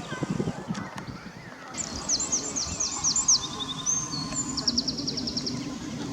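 A small songbird singing. From about two seconds in it gives a run of quick, high down-slurred notes, then near the end a fast trill, over steady low outdoor background noise.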